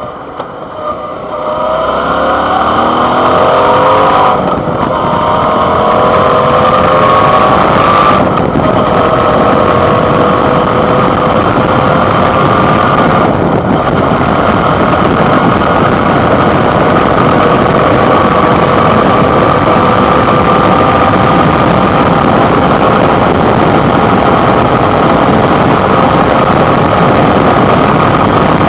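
Suzuki V-Strom 650's 645 cc V-twin engine pulling away and accelerating, its pitch rising with two short breaks for upshifts about 4.5 and 8 seconds in. It then settles into steady cruising with a strong rush of wind on a handlebar-mounted microphone.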